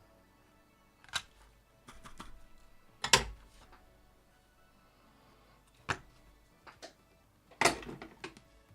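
A few sharp clicks and knocks of tools or parts being handled on a workbench, the loudest about three seconds in and another near the end.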